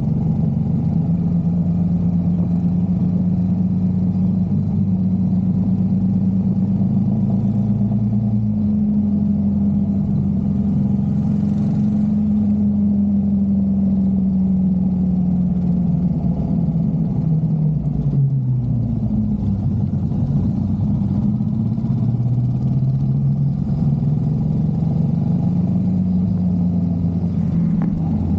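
Motorcycle engine running steadily under way. Its pitch holds, then sinks a little over halfway through and rises again near the end.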